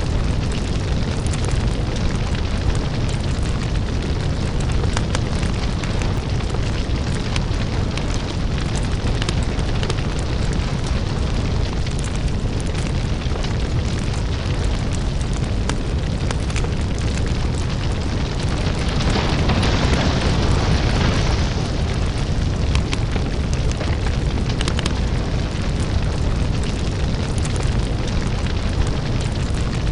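Crackling lava fire ambience: a continuous deep rumble under dense crackles and pops, with a louder hissing surge about two-thirds of the way through.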